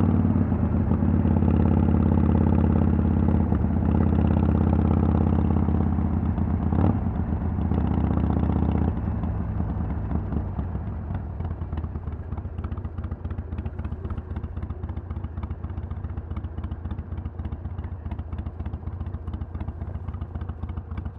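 Harley-Davidson Sportster XL883L's 883 cc air-cooled V-twin running through a Vance & Hines Twin Slash exhaust, a strong steady note at first. About nine seconds in it suddenly drops to a quieter, uneven, clattering running.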